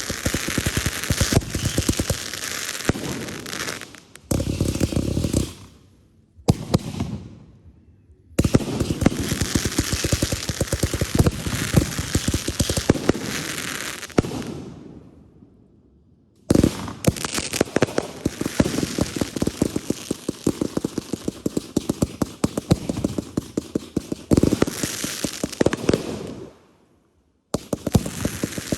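Consumer fireworks going off in dense runs of rapid pops and crackles, many per second. The runs break off abruptly into short silences a few times.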